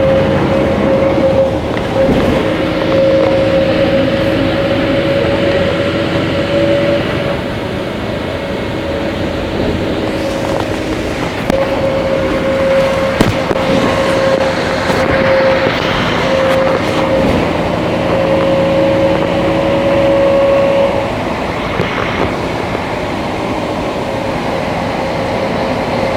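Scania K310IA articulated bus with a ZF automatic gearbox running under way, steady engine and drivetrain noise with a steady high whine over it that drops out for a few seconds and then comes back.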